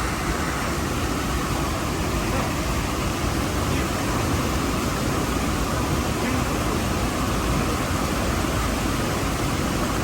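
Steady rushing of fast river water, an even noise that does not change.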